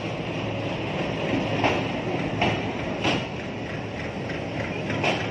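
Diesel locomotive and passenger coaches rolling slowly past a platform: the engine hums steadily under the rumble of the wheels, with a few sharp clacks as the wheels cross rail joints.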